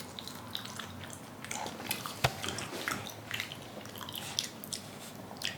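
A person chewing and biting raw chicken close to the microphone: irregular wet mouth clicks and smacks, with one sharper click a little over two seconds in.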